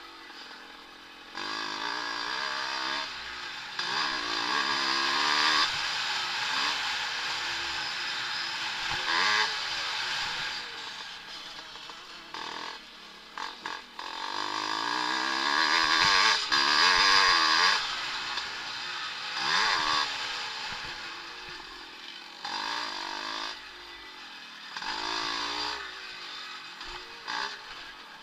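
Vintage motocross motorcycles racing, engines revving up and down through the gears with a buzzing note. The sound swells and fades repeatedly as bikes come near and go away, loudest a little past halfway through.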